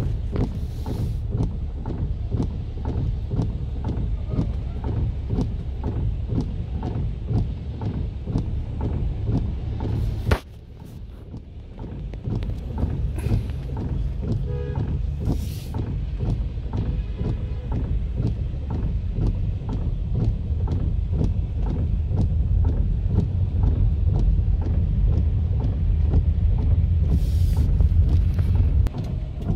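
Heavy rain drumming on a car's roof and windscreen, heard from inside the car, a dense patter of drops over a steady low rumble. A sharp click about ten seconds in, after which the sound is briefly quieter before building back.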